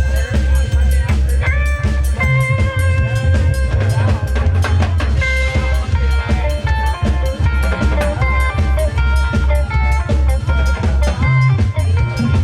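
Live rock band playing an instrumental passage: drum kit keeping a steady busy beat with rimshots, electric bass, and guitar playing held notes.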